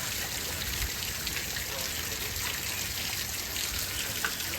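Steady thunderstorm rain falling: an even hiss with scattered faint drop ticks.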